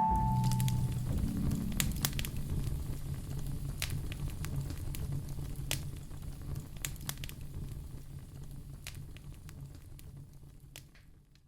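Wood fire crackling in a fireplace, with scattered sharp pops over a low steady rumble, gradually fading out to silence.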